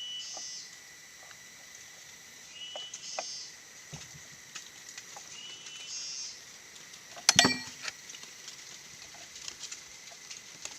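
A short rising bird-like call repeating about every three seconds over a faint steady high whine, with scattered light ticks and one sharp clatter about seven seconds in.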